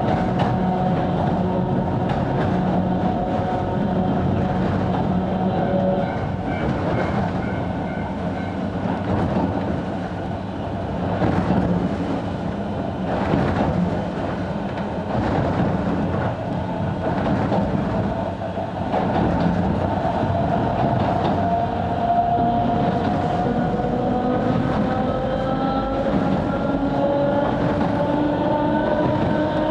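Interior of a 270-series 762 mm narrow-gauge electric train under way: steady running noise with wheels clicking over rail joints. Through the second half a motor whine rises steadily in pitch as the train picks up speed.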